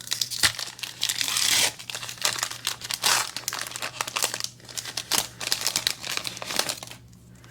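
Trading-card booster pack being torn open, its wrapper crinkling and crackling as it is handled, with a longer tear about a second in; the handling stops near the end.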